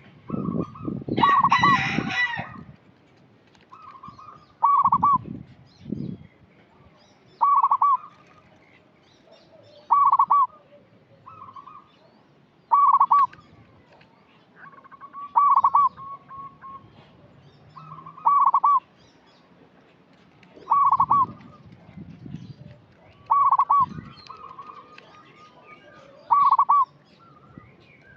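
Zebra dove (perkutut) cooing: short ringing coo notes repeated about every two to three seconds. A louder, harsher sound comes about a second in, and a few low thumps sound among the coos.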